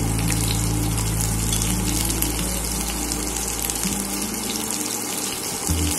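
Chicken shashlik skewers sizzling steadily in shallow soybean oil in a frying pan, over a low hum that fades out about four seconds in.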